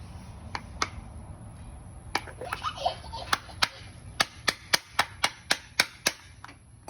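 Small hammer striking a nail into a wooden birdhouse kit: a couple of light taps early on, then a run of quick, sharp blows, about three or four a second, in the second half, as a crooked nail is reworked.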